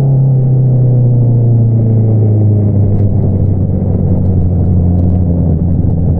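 A 2022 Honda CBR650R's inline-four engine running through an Akrapovič single-outlet exhaust, its revs falling slowly and evenly as the bike slows down.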